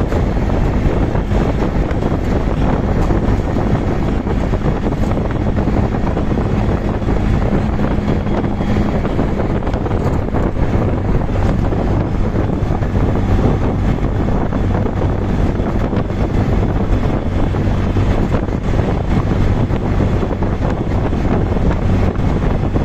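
Moving auto rickshaw: its small engine drones steadily under heavy wind buffeting on the microphone and road rumble.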